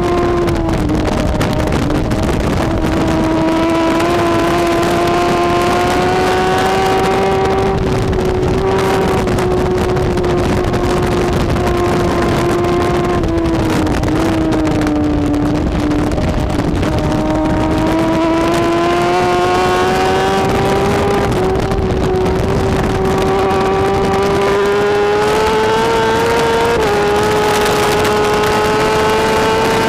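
BMW S1000RR superbike's inline-four engine at race speed, its pitch climbing steadily and dropping slightly at each quick upshift, with one longer dip and climb midway through. Wind rush runs underneath.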